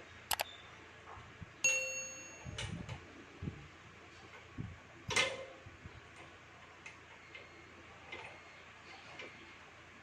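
Metal tools and parts clinking and knocking on a workbench, with one piece ringing briefly about two seconds in and a louder knock near the middle.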